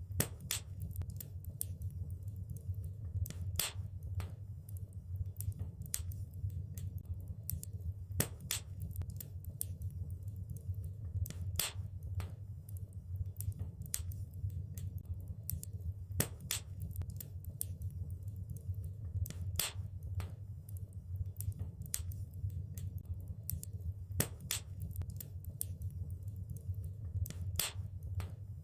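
Fire in a fireplace crackling: irregular sharp snaps and pops over a steady low rumble of the flames.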